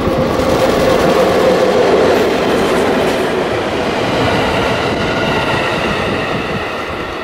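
A diesel-hauled train carrying new 521-series electric train cars passes at speed. It is loudest about a second or two in, with the cars' wheels rolling over the rails, then slowly fades. A steady high ringing runs through the second half.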